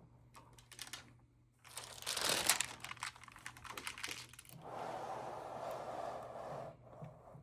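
Stamp album pages being handled and turned: a few light clicks, then a loud crinkling rustle of paper or plastic sheets about two seconds in, followed by a steadier sliding, rubbing sound.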